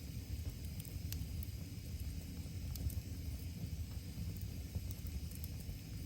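Wood fire crackling: scattered sharp pops and clicks over a steady low rumble.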